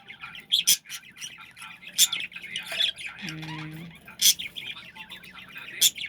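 Pet lovebirds chattering nonstop in fast, high twitters, broken by about five sharp, loud squawks.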